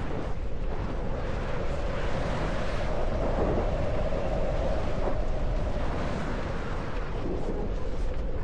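Steady wind rushing over the microphone during a BASE jump descent, a dense noise heaviest in the low end.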